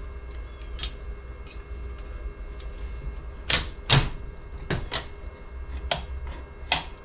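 Small metal parts of a Quadrajet carburetor clicking and tapping as it is reassembled by hand: a string of sharp taps, the loudest about four seconds in, over a steady low hum.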